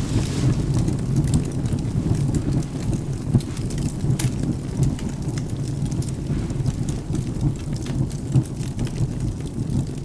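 Steady low rumble of rain and thunder under the sharp, scattered crackles and pops of a burning wood fire, with the loudest pops about three and four seconds in.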